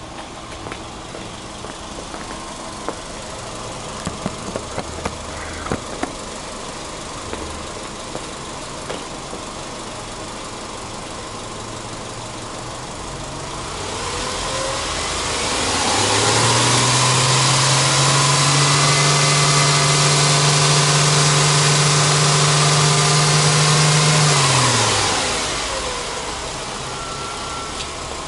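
Subaru Legacy B4 2.0i's 2.0-litre flat-four boxer engine idling, with a few clicks and knocks in the first six seconds. About 14 seconds in it is revved up over a couple of seconds, held steady at high revs for about eight seconds, then let fall back to idle.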